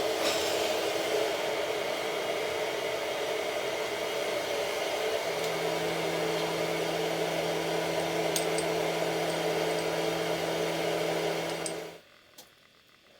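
An electric motor running steadily with a whirring hum, a lower hum tone joining about five seconds in; it stops abruptly about twelve seconds in.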